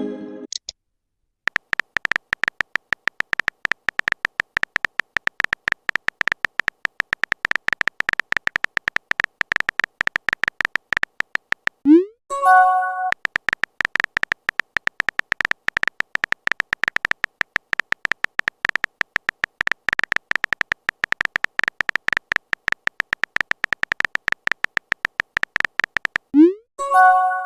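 Phone-keyboard typing sound effect: a fast, steady stream of clicks. It breaks about twelve seconds in and again near the end for a short rising whoosh and a brief chime, a message-sent notification.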